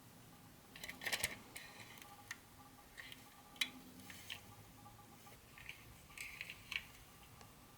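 Hands handling model train parts and their packaging: scattered light clicks and taps with short rustles, a cluster about a second in, single sharp clicks in the middle and another flurry near the end.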